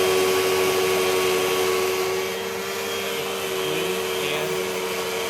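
Hoover WindTunnel High Performance Pet upright vacuum cleaner running: a steady motor whine over a rushing hiss of air, which gets a little quieter about two seconds in.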